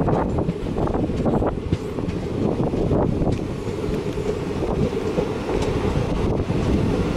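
Passenger train coaches running along the track, heard from an open coach door: a steady rumble of wheels on rails with scattered clicks.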